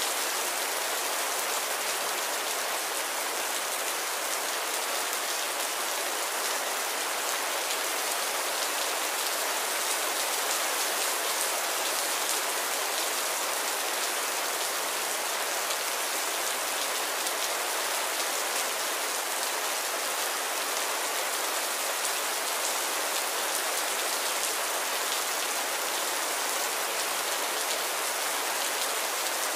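Heavy rain falling steadily, a dense even hiss of drops hitting the ground.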